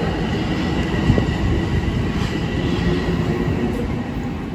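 A Metro-North Hudson Line commuter train running on the rails: a steady rumble with a faint high whine, slowly fading, and a single knock about a second in.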